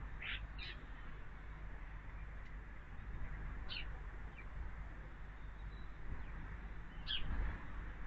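Garden birds giving short, high chirps that drop in pitch, a few at a time: two at the start, two near the middle and one near the end, over a steady low rumble.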